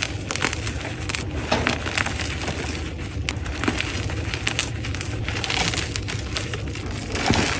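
Block of gym chalk being crushed: continuous crunchy crackling as it crumbles into powder.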